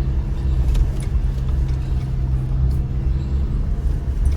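2025 Chevy Colorado ZR2 pickup driving slowly on a rough dirt trail: a steady low engine and drivetrain drone with a few faint ticks and rattles.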